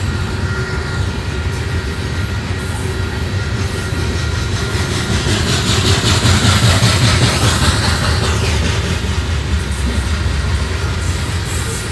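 Loaded freight coal hopper cars rolling past on the rails: a steady rumble of steel wheels on track, growing louder around the middle.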